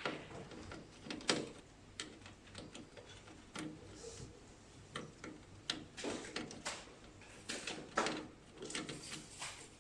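Irregular clicks and knocks of small plastic and metal parts being handled as the ink pump assembly of a flatbed printer is taken apart by hand.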